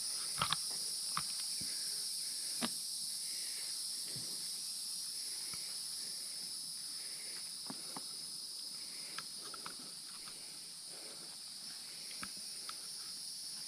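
A steady, high-pitched insect chorus drones on without a break, with scattered light clicks and crunches of footsteps on the forest floor.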